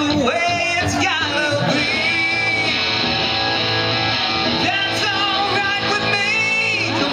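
Live rock song: a male singer holding long sung notes over a band with guitar.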